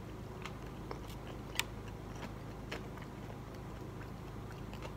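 A person chewing fried catfish with a crisp coating, with a few faint crunchy clicks; the sharpest comes about one and a half seconds in.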